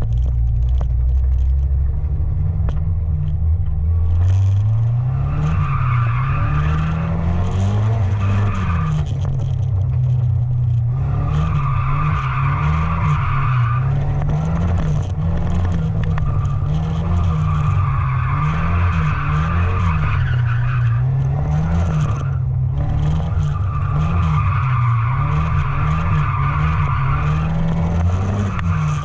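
Truck engine revving up and down while drifting, with tyres squealing in four long stretches of a few seconds each.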